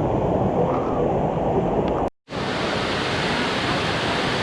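Waterfall rushing steadily. About two seconds in the sound cuts out for a split second, then comes back hissier and brighter.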